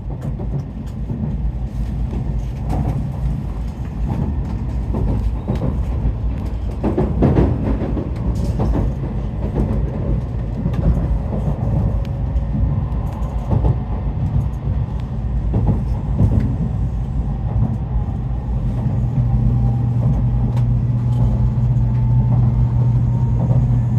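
Shinkansen passenger-car interior running noise: a steady low rumble from the wheels on the rails with scattered knocks, and over the second half a faint whine rising slowly in pitch as the train picks up speed.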